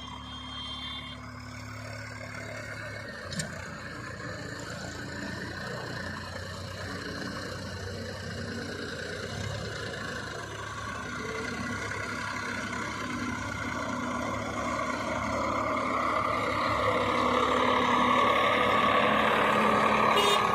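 Diesel tractor engine running steadily, getting louder over the second half, with a single sharp click about three seconds in.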